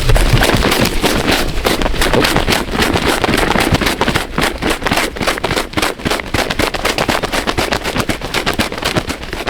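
A freshly shot wild turkey gobbler flopping in its death throes, its wings beating rapidly and over and over against the ground and brush in a fast, continuous flurry.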